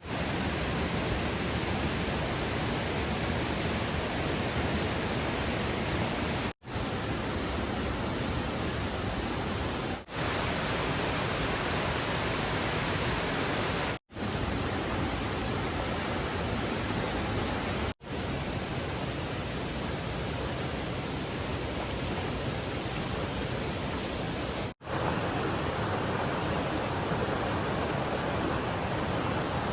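Steady rushing of stream water, an even hiss, cut off sharply for an instant five times as one stretch of recording gives way to the next.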